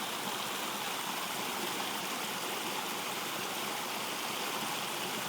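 Stream running: a steady, even rush of flowing water.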